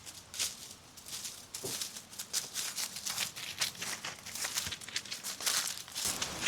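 Footsteps crunching and rustling through dry leaves and brush, an irregular run of several steps a second.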